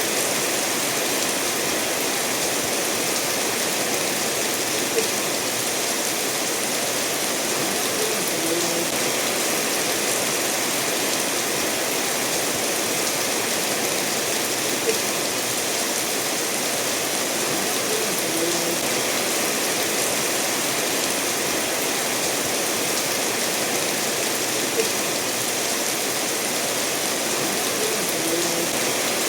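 Steady rain falling together with a stream running over stones, an even hiss of water. A brief tick stands out about every ten seconds.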